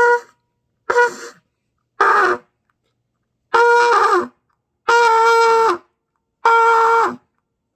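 A beginner trumpet player blowing repeated notes on one pitch: three short blasts about a second apart, then three longer held notes. Several notes sag in pitch as they end. These are practice attempts at sustaining long tones.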